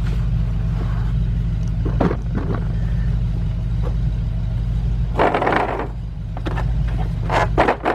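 Tools and tester parts being handled, rattling and clattering, with a burst about five seconds in and two more near the end, over a steady low mechanical hum.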